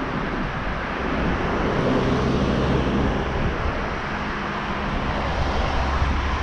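Street traffic: a motor vehicle passing, over a steady rush of road and wind noise.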